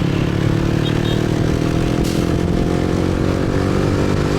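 Motorcycle engine running at a steady speed while riding, with wind and road noise over the microphone.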